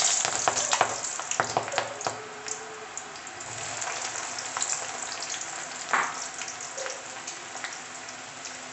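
Jackfruit slices deep-frying in very hot oil in a stainless steel kadai: a dense sizzle full of crackles. It is loudest at first and settles somewhat, with one louder crack about six seconds in.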